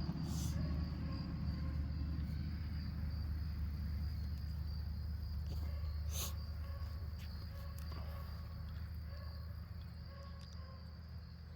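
Insects chirping steadily over a low rumble that slowly fades away, with a few light clicks.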